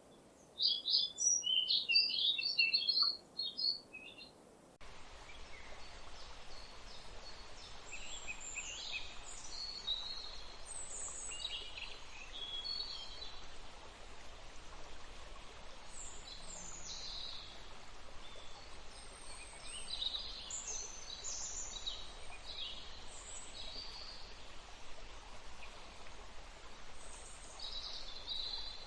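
A songbird singing a quick run of high chirping notes for about three seconds. Then, after an abrupt change about five seconds in, several birds singing scattered high phrases over a steady background hiss.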